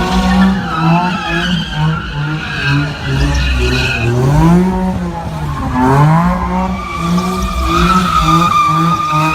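Car doing a burnout or donuts: tyres squealing against the pavement while the engine is revved hard, climbing sharply twice partway through. Near the end there is a steady high tyre squeal.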